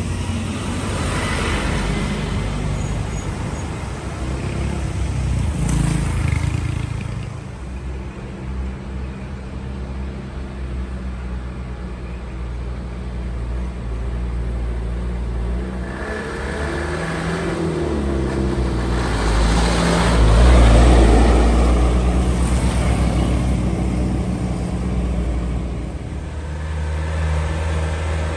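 Heavy diesel trucks passing on the road, their engines running with a deep rumble. One gets loudest about twenty seconds in, its engine note sliding in pitch just before it does.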